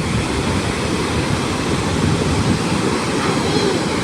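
Ocean surf washing on a beach, mixed with wind rumbling on the microphone, as a steady roar.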